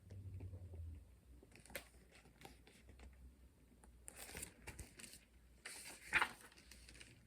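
Faint paper rustling and a few light taps, as the pages of a picture book are handled and turned.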